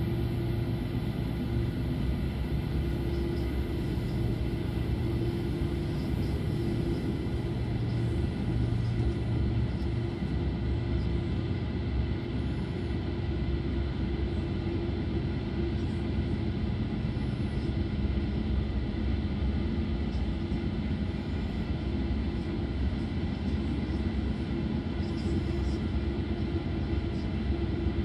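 Running noise inside a Belgian Railways I10 passenger coach at speed: a steady rumble of the wheels on the track, with a steady hum over it.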